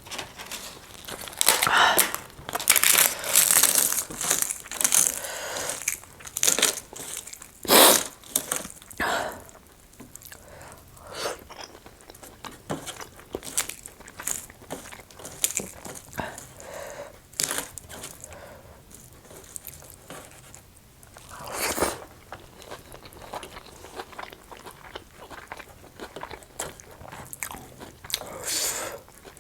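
Close-miked chewing and crunchy bites of food, eaten in a mukbang. The loudest crunches come in a dense run over the first ten seconds, with softer chewing after and single louder bites about two-thirds of the way through and near the end.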